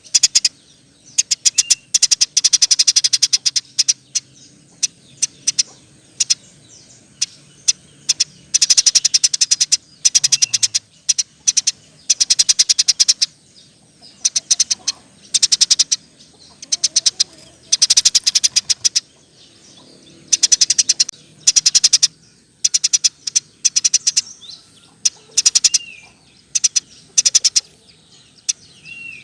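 Eurasian tree sparrow chattering in fast rolled bursts of tightly packed, high chirps, run after run with short pauses between, the rapid 'spit rapat' chatter of an excited, vocal (gacor) bird.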